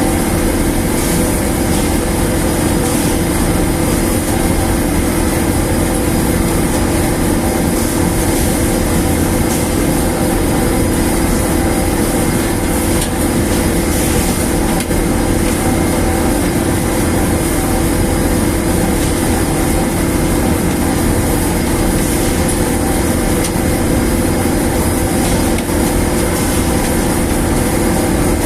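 A large dryer machine running steadily: a constant mechanical drone with a steady hum that does not change.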